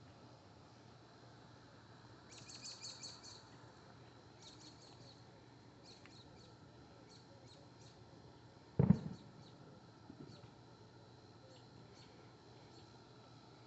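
Bird chirping in several short bursts of rapid high notes over a faint outdoor background. About two thirds of the way through comes one loud, sharp, deep thump with a short rumble after it, then a fainter thump a second later.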